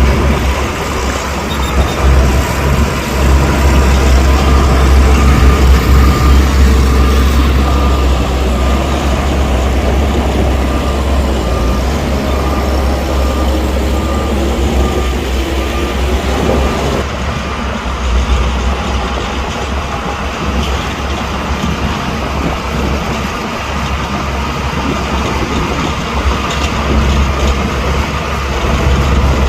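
Heavy diesel earthmoving machinery running with a deep, steady engine rumble. Through the first half a reversing alarm beeps evenly, and the sound changes abruptly a little past halfway.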